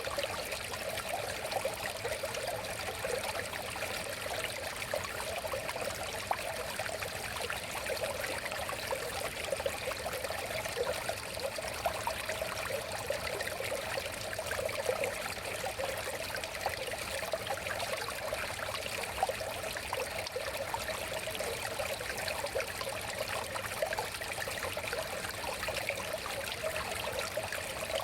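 River water flowing steadily, a continuous rushing with small splashes and trickles flickering through it.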